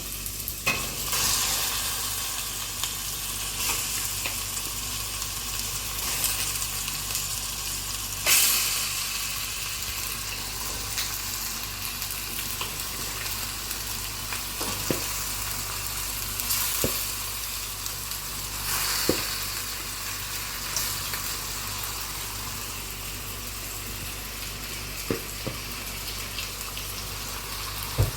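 Food frying in a pan: a steady sizzling hiss, with a few sharp clicks of a spoon against the pan as it is stirred.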